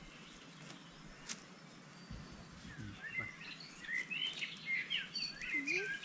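Small birds chirping in quick, high calls, thickening into a busy run of chirps over the second half. There is a single sharp click about a second in.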